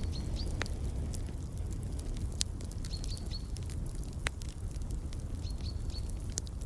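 Wood fire crackling in a fireplace, with scattered sharp pops over a low steady rumble. A bird calls three times, each a quick run of about three short high chirps, every few seconds.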